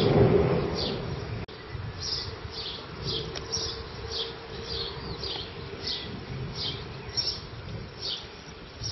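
A small bird calling over and over, short high chirps that drop in pitch, about two a second. Low thunder rumble fades out in the first second and a half.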